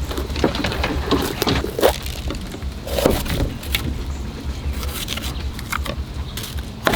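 Food-preparation noises: irregular clicks and knocks, with a steady low rumble underneath.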